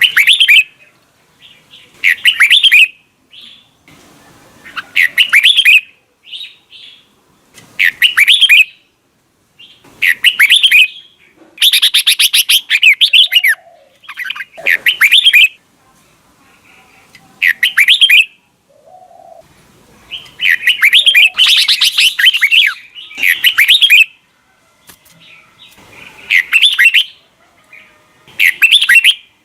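Red-whiskered bulbul singing loud, short chirpy phrases about every two seconds, with a couple of longer, fuller phrases. This is the rich 'double-note' wild-type song used to train caged bulbuls to sing.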